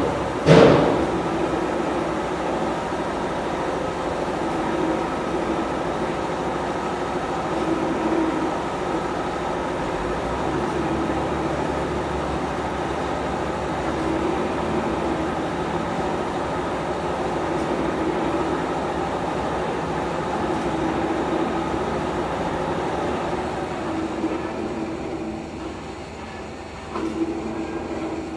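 Workshop machine running steadily with an even hum, after a sharp knock right at the start. The hum drops a little near the end.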